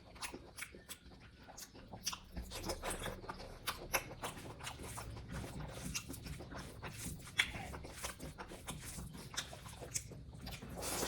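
Close-miked chewing of pork curry and rice: irregular wet smacks and soft crunches of mouth and teeth working through fatty pork.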